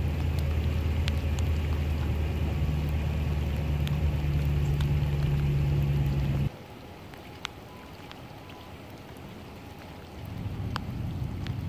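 Heavy rain falling on flooded pavement, with scattered close drops ticking. A steady low hum runs under it for the first half and ends abruptly about six and a half seconds in, leaving quieter rain that swells again near the end.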